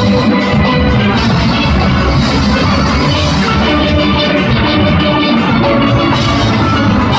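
A steel band playing live: massed steelpans carrying the tune over a drum kit and percussion engine room, loud and continuous.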